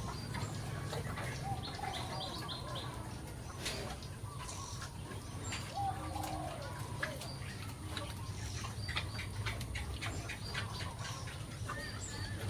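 Birds chirping in short, high calls over a steady low rumble, with scattered clicks and taps.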